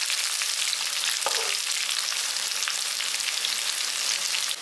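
Chopped shallots sizzling in hot oil in a kadai with tempered spices: a steady frying hiss flecked with small crackles and pops.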